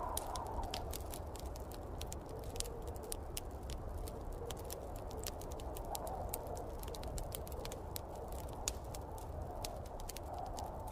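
Wood fire crackling with many scattered sharp pops, over a steady low rumble and snowstorm wind that swells and fades, rising near the start, about six seconds in and near the end.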